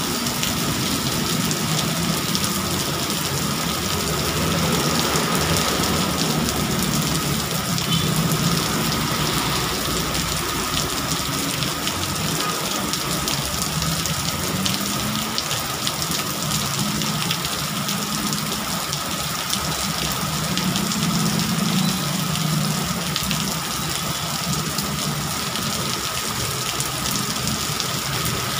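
Heavy rain pouring onto a wet road and pavement, a steady dense hiss. Traffic passing through the downpour, cars and motorbikes, adds a low rumble that swells and fades several times.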